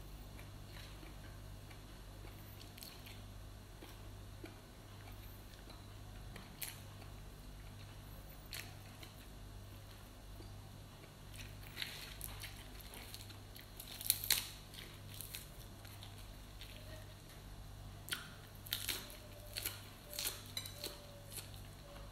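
Crisp crunching of raw leafy greens being chewed and the leaves snapped by hand: scattered sharp crunches, thickest around the middle and again near the end, over a steady low hum.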